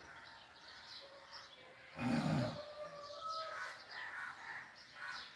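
Birds chirping faintly, a run of short high chirps from about three seconds on, with a brief dull low sound about two seconds in.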